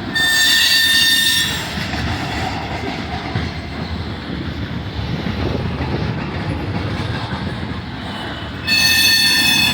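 Freight cars of a long manifest train rolling past, with a steady rumble of wheels on rail. Twice, a high-pitched ringing wheel squeal cuts in: once at the start for about a second and a half, and again near the end.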